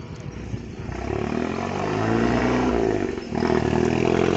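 A car engine accelerating and getting louder as it pulls away, its pitch climbing, with a brief drop in sound just after three seconds in, like a gear change.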